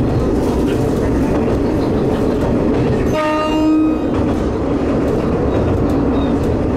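Diesel railcar running along the line, its steady rumble and wheel noise heard from on board. About three seconds in it sounds its horn once, a single steady blast lasting under a second.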